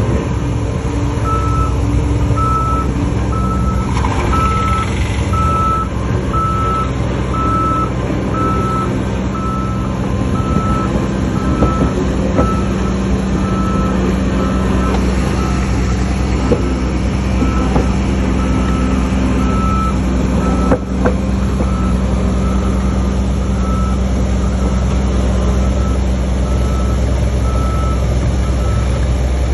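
Reversing alarm on heavy equipment beeping steadily at about once a second, starting about a second in, over the steady low running of diesel engines.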